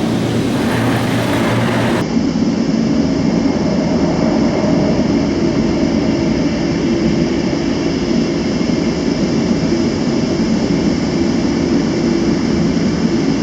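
Istobal M18 car wash air dryer blowers running steadily and loudly, blasting water off the car as the dryer gantry inches along it.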